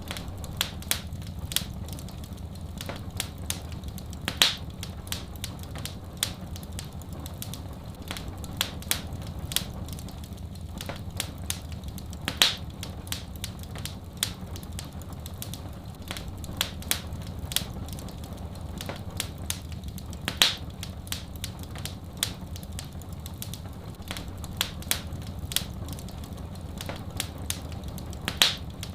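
Fireplace wood fire crackling: many small sharp clicks with a louder pop about every eight seconds, over a steady low rumble.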